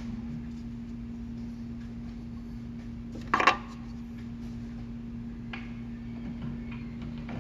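A metal tool or part clanks once against metal, a short clatter with a brief ring, about three and a half seconds in. A steady low hum runs underneath throughout.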